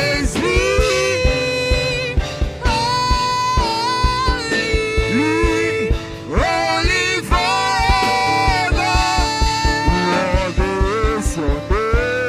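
Gospel worship song: a singer's voice holding long, sliding notes over a band with a steady drum beat.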